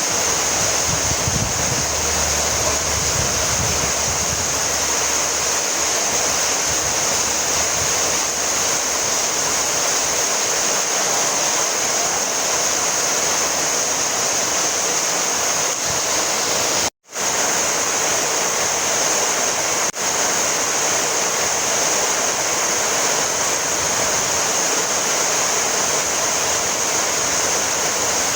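Heavy rain falling steadily, a dense, even hiss. It cuts out completely for a split second about two-thirds of the way through.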